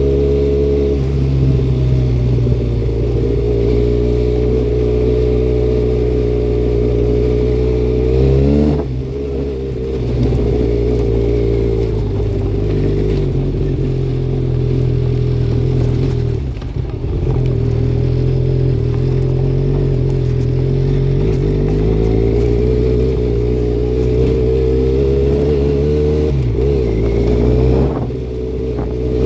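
Benelli Leoncino 500 Trail's parallel-twin engine running through an aftermarket MIVV Double Gun exhaust under way. It holds a steady cruising note. About nine seconds in, the note climbs and then drops sharply. It dips briefly around the middle and rises again near the end.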